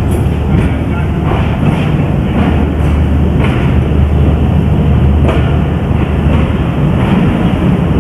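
Moving passenger train running along the track: a steady heavy rumble with scattered clicks of the wheels on the rails.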